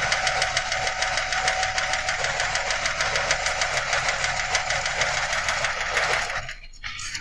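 Chevrolet 5.3 Vortec V8 running with the valve cover off, its exposed rocker arms, pushrods and lifters clattering in a fast, even ticking. This is the hot lifter tick of a worn, intermittently collapsing lifter that sprays oil. The sound drops away about six and a half seconds in.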